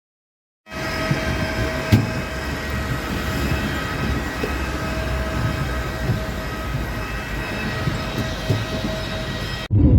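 Steady running rumble of a moving vehicle with a constant whine, a single click about two seconds in, cut off suddenly near the end.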